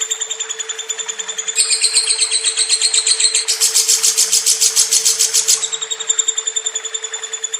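Lovebird singing a long, unbroken run of rapid high chirps, about eight a second, growing louder and fuller from about a second and a half in until about six seconds in. A steady low hum runs underneath.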